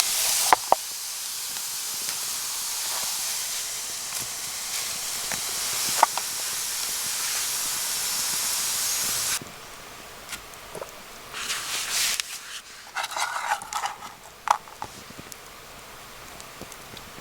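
Food sizzling in a frying pan: a steady hiss that cuts off about nine seconds in, followed by scattered light clicks.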